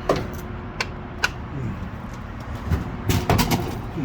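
Vending machine being worked: single clicks, then a cluster of knocks about three seconds in, over a steady low rumble.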